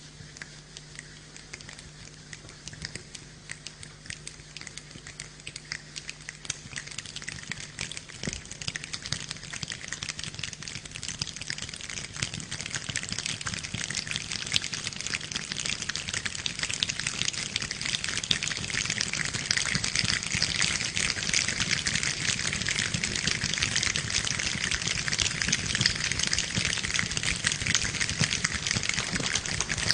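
A dense patter of countless tiny crackles and ticks that sounds like rain but is made without water, growing steadily louder.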